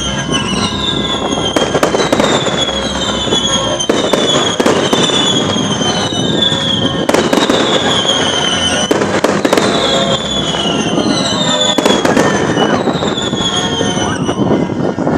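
Fireworks display going off: a dense run of bangs and crackles, with whistling shells whose pitch falls, one after another about once a second.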